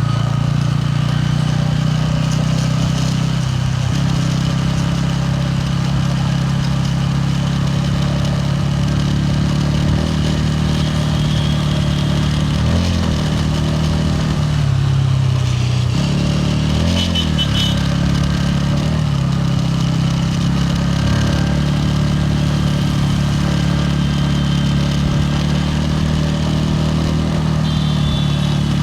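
Bajaj Pulsar N160's single-cylinder engine and exhaust running steadily under way, its pitch dipping and recovering briefly several times as the revs change.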